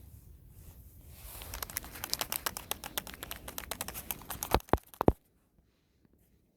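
Dense crackling and crinkling, as of material being handled and broken up, ending in three sharp snaps close together near the end, then cutting off suddenly.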